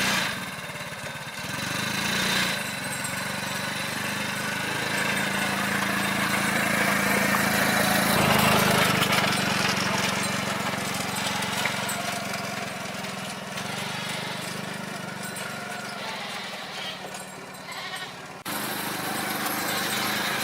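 Goats bleating over the steady hum of a vehicle engine running.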